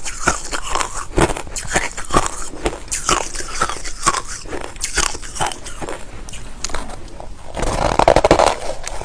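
Close-up crunching of white crushed ice being bitten and chewed, a quick run of sharp crisp crunches several times a second. Near the end the crunching turns louder and denser.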